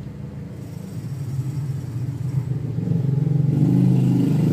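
A low motor rumble that grows steadily louder, loudest near the end.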